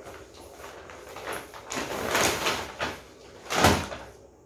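Rustling and crinkling of a shopping bag or packaging as clothes are taken out, in uneven bursts with one loud crackle about three and a half seconds in.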